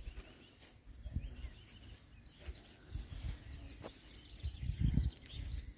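Faint birds chirping, with low rumbling bursts on the microphone, loudest about five seconds in.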